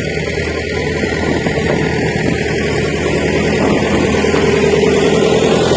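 A large engine, likely the demolition machine's diesel, running steadily and slowly getting louder.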